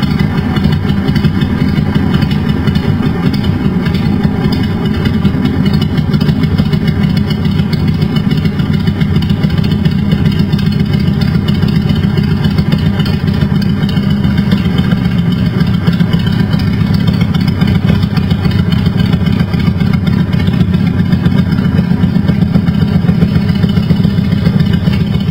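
Motorcycle engine running steadily at a low, even idle.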